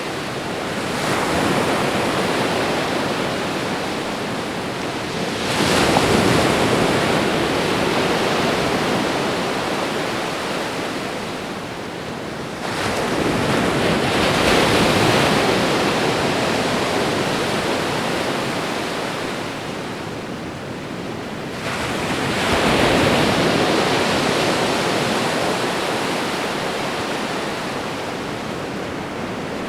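Ocean waves breaking and washing on a shore, a continuous rushing wash with a new wave surging in every several seconds, four times in all, each fading slowly.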